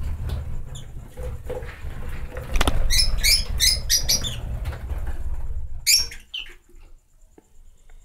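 Small birds at a nest box giving a quick run of short, high squeaky chirps, several a second, about midway, and another chirp near the end. Under them is a low rumble and knocking from a handheld microphone being moved around the box, which dies away near the end.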